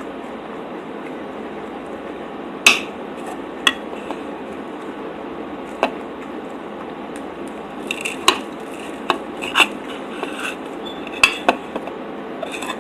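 Cutlery clinking against a plate while pancakes are eaten, with sharp scattered clinks that come more often in the second half, over a steady background hiss.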